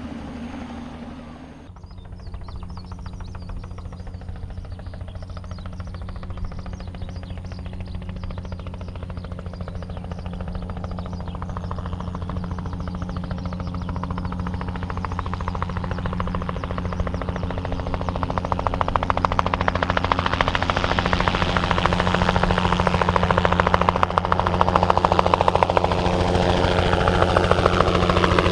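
Bell 206B-3 JetRanger III helicopter approaching, its rotor beating in a fast pulsing rhythm over the turboshaft's whine and growing steadily louder. Near the end the whine's pitch falls as it comes by.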